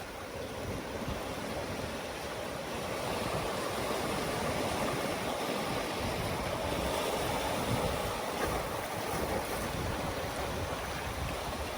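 Ocean surf washing in: a steady rush of waves that swells a little in the middle and eases toward the end.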